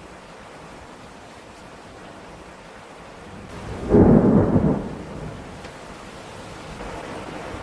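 Steady rain during a thunderstorm, with a loud thunderclap about four seconds in that rumbles for about a second and then fades back under the rain.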